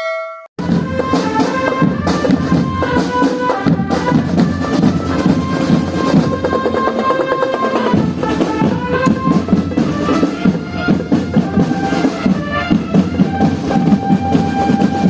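Marching band playing: held brass notes carrying a melody over marching drums and bass drum, starting just after a short bell-like ding that cuts off abruptly.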